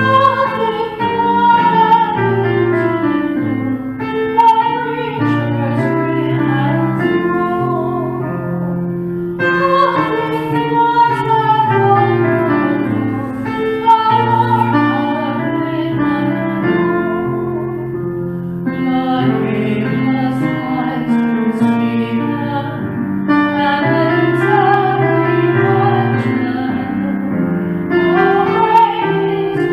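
A woman singing a slow song with piano accompaniment, in long phrases with held, wavering notes.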